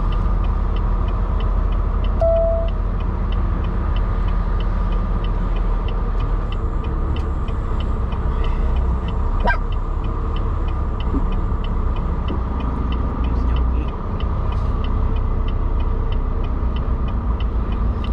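Semi truck running, a steady low rumble of engine and road noise, with a regular fast ticking throughout and a short beep about two seconds in.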